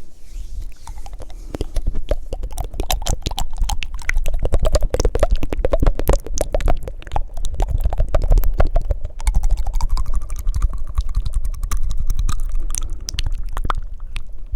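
Close-miked ASMR mouth sounds: fast, wet tongue fluttering and clicking, a dense run of rapid clicks with breath rumbling on the microphone.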